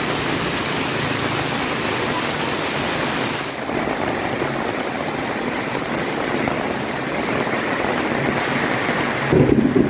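Heavy rain pouring down as a steady hiss, which abruptly loses its highest part about three and a half seconds in. Near the end a louder rumble of thunder sets in over the rain.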